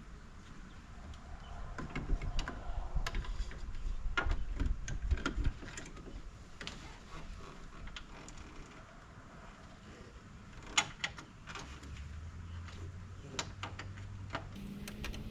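Ratcheting socket wrench tightening the horn mounting bolt, in short runs of clicks with pauses between them.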